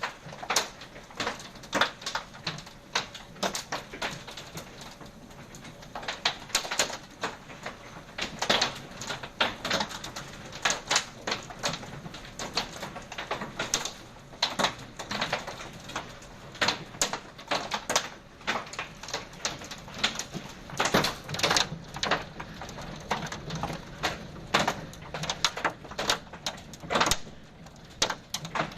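Storm precipitation striking a hard surface: many irregular sharp taps, several a second and uneven in loudness, over a steady background hiss.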